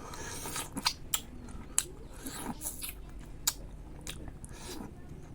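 Close-up chewing and mouth sounds of a person eating bayberries, with a few sharp wet clicks.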